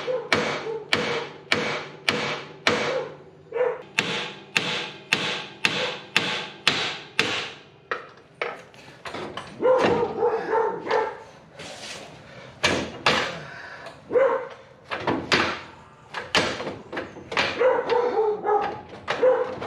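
Repeated hammer blows on steel, about two a second, each with a short metallic ring. They ease off briefly around the middle, then carry on.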